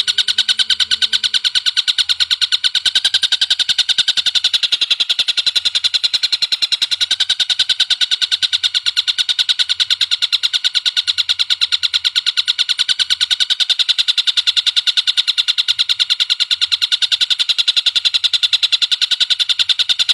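Songbird song from a masteran bird-song tutor recording: a high, rapid, unbroken trill of evenly spaced notes that goes on without a pause.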